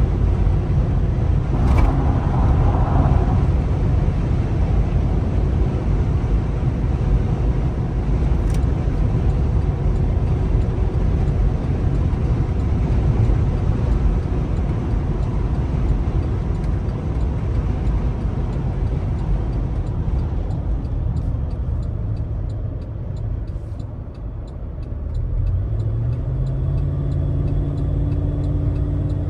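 2011 Cadillac Escalade AWD's V8 and tyres making a steady low rumble while driving. The noise eases about three-quarters of the way through, then the engine's pitch climbs as the SUV accelerates near the end. A regular light ticking sounds through the last third.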